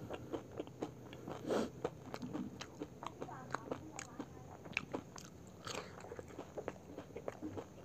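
Close-miked chewing of pani puri: the fried puri shells crunching and wet mouth clicks in a quick irregular run, with a short puff of breath blown out near the end.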